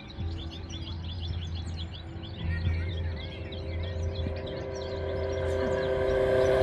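Bird-and-music soundscape of a light-and-sound installation: many quick, overlapping bird chirps, thinning out after about four seconds as a held chord of steady tones swells in and grows louder toward the end.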